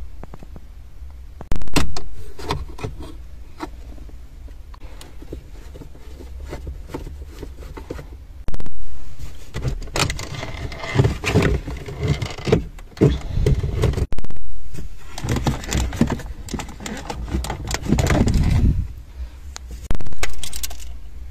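Handling noises of a repair: repeated clicks, knocks, scrapes and rattles of small parts and tools, with sudden jumps in level several times.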